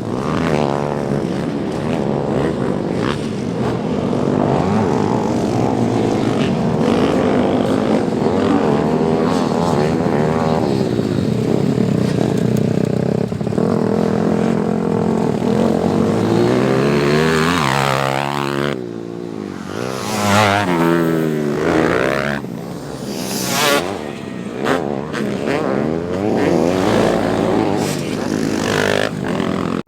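Small four-stroke pit bike engines revving hard. They hold fairly steady high revs for the first half, then drop off and swoop up and down several times, the sound of riding a dirt track.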